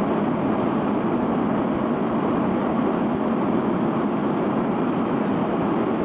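Steady rushing noise of a sand carrier's conveyor belt running and pouring sand off as the ship unloads.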